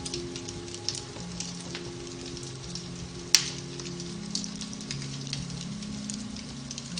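Beech-wood fire in a fireplace crackling with many small snaps and one sharp, loud pop about halfway through, over soft, slow piano music.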